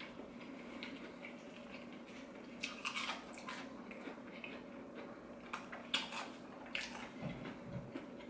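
A person chewing crispy fried chicken strips with the mouth closed, with a cluster of crunches about three seconds in and more around six seconds, over a faint steady hum.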